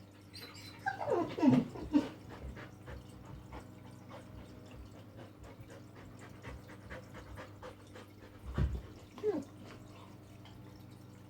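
Dog whining: a long call falling steeply in pitch in the first two seconds, then a low thump and a short falling whine near the end.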